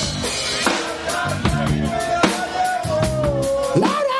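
Live band music: a drum kit beat with kick and snare under a held, gliding melody line.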